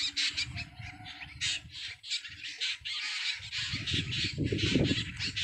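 Birds chirping and calling in quick, short repeated notes, with a low rumble coming in over the last second or so.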